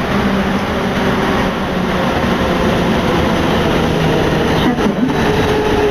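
Paris Métro MP89CA rubber-tyred train running, heard from inside the car: a steady rolling rumble with humming motor tones that shift in pitch a little about five seconds in.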